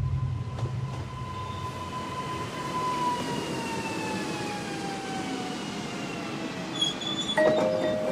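A long whistle-like tone that slides slowly down in pitch over a low rumble, train-like sound design. Struck mallet-percussion notes of music begin near the end.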